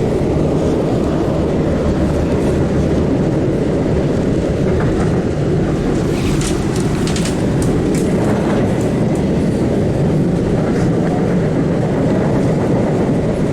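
Siemens 700-series Blue Line subway car running between stations, heard from inside the car: a steady rumble of wheels and running gear on the rails. A cluster of sharp clicks and rattles comes about halfway through.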